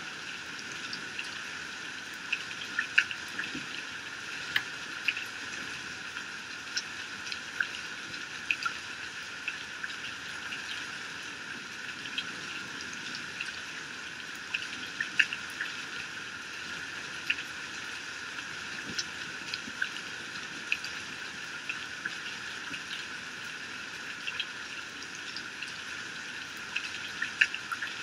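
Heavy rain falling steadily, with many sharp drops tapping close by at irregular intervals.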